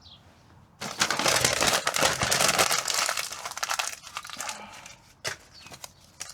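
Crinkling and crumpling of sheet material being handled: a dense crackle from about a second in, lasting about three seconds, then a few scattered crackles.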